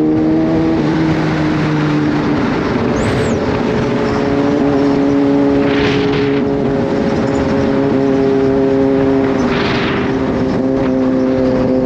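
Kawasaki Z H2's supercharged inline-four engine running steadily while riding, its note dropping a little about two seconds in and then holding. Two short rushing hisses come over it about six and ten seconds in.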